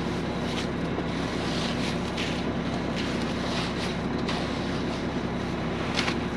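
An engine runs steadily throughout, with soft intermittent scraping swishes as a screed board is dragged across wet concrete. There are a few sharp clicks near the end.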